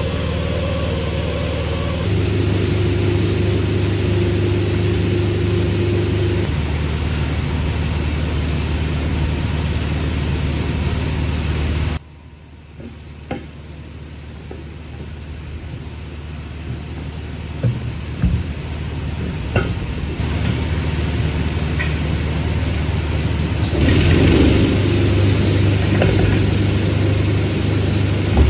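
Heavy diesel truck engine running steadily, its pitch stepping up about two seconds in and back down a few seconds later. Midway the sound drops away abruptly to a quieter stretch with a few knocks, and the engine grows louder again near the end.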